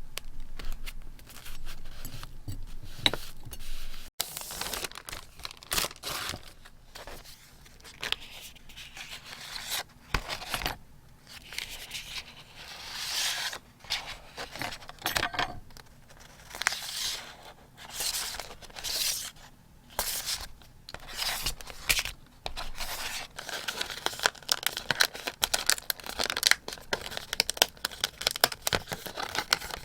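Paper being torn and handled, crinkling in irregular bursts with short pauses between, then a quicker run of small sharp clicks near the end.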